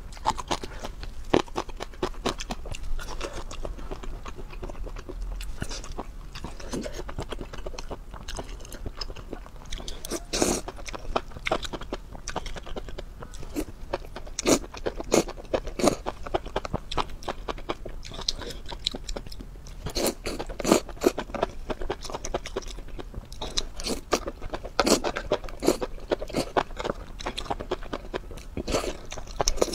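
Close-miked chewing and crunching of spicy enoki mushrooms and baby octopus: an irregular run of crisp bites and wet mouth smacks, busiest about ten seconds in and again through the last third.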